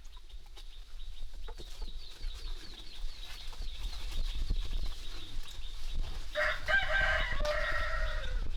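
A rooster crowing once, a single call about two seconds long that comes near the end, over a low rumble and faint scattered clicks.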